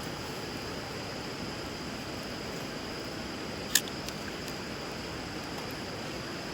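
Wood bonfire burning over a river: a steady rush of flowing water, with one sharp crackle from the fire a little under four seconds in.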